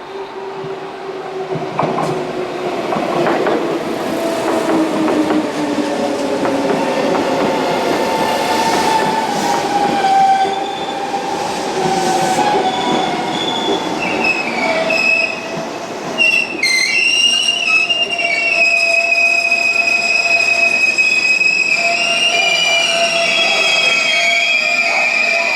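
Tobu 200 series limited express electric train moving through the station, with rapid clicks of the wheels over the rail joints. From about halfway, a steady high-pitched squeal of the wheels on the rail sets in and holds.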